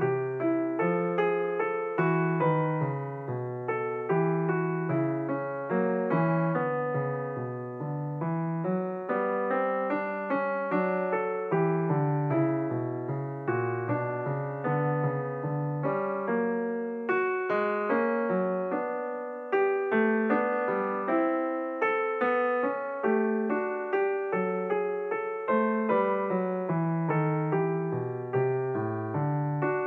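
Background piano music: a steady stream of struck notes, each dying away.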